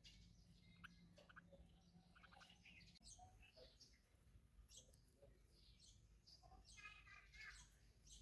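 Faint bird chirps and short calls, scattered irregularly.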